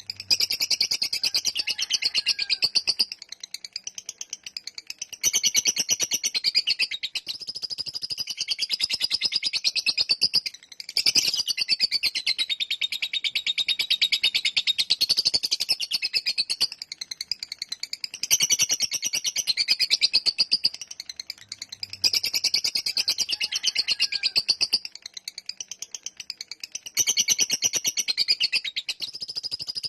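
Lovebird ngekek: a long, very rapid, high-pitched chattering trill, sung in runs of several seconds broken by short pauses.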